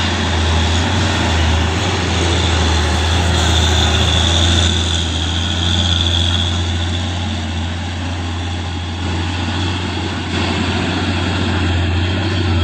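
Heavy truck's engine running under load, a steady low drone with road noise, dipping a little about eight seconds in.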